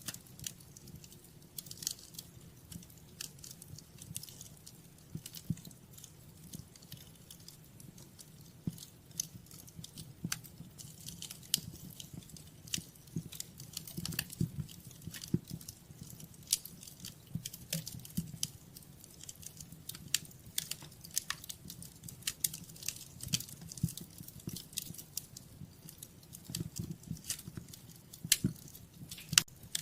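Wood fire crackling in a fireplace: irregular sharp pops and snaps over a low, soft rumble of flames.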